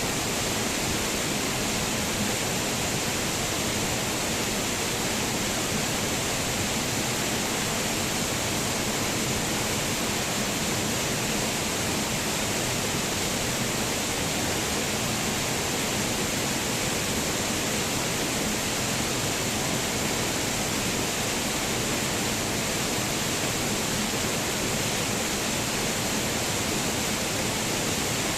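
Waterfall: falling water crashing into a pool as a steady, unchanging rush.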